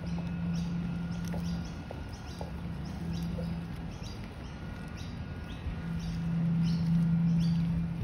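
Small birds chirping over and over, short falling chirps a few times a second, over a low motor hum that comes and goes and is loudest near the end.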